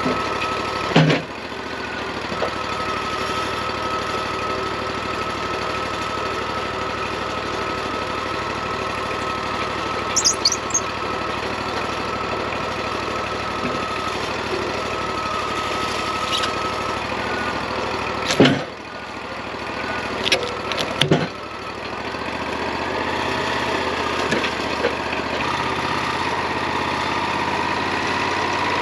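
Wood-Mizer LT40 portable bandsaw sawmill running steadily with a constant whine, its pitch dropping slightly about two-thirds of the way in. A few sharp knocks stand out over it, one about a second in and a cluster near the two-thirds mark.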